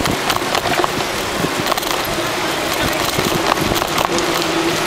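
Outdoor noise while riding on a group bicycle ride: a steady rush with many scattered sharp clicks and rattles. A steady hum joins about three seconds in.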